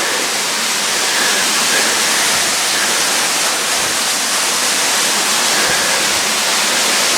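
Waterfall cascading over rock in several drops, a steady rushing hiss.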